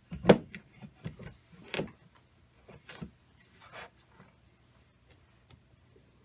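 Irregular metal clicks and knocks from hands adjusting and turning the parts of a home-built three-cylinder air engine's slider valve, with one brief rasp near the middle. The engine is not running.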